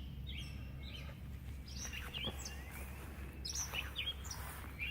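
Birds chirping off and on, short high calls scattered through, over a steady low outdoor rumble.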